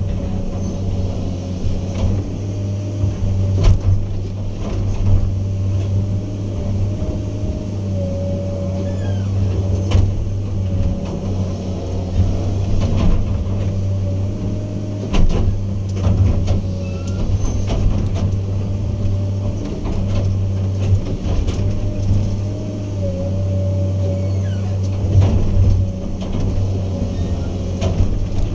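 Heavy construction machine's diesel engine running steadily under a low hum, with a faint wavering whine above it and scattered clanks and knocks.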